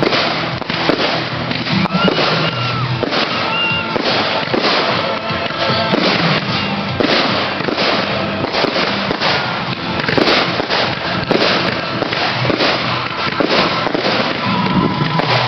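Fireworks display in full swing: a dense, continuous run of overlapping bangs and crackles from shells bursting, with no pause.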